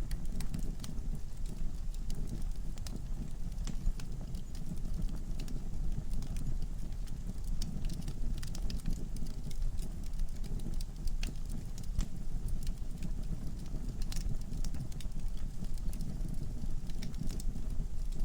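Log fire burning in a fireplace: a steady low rumble of flame with irregular sharp crackles and pops scattered throughout.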